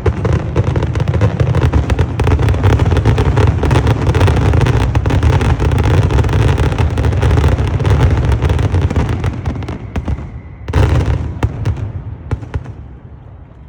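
Fireworks going off in a dense, rapid barrage of bangs with a deep rumble, thinning out after about ten seconds, with one last loud burst about a second later and a few scattered bangs fading away: the closing barrage of the show.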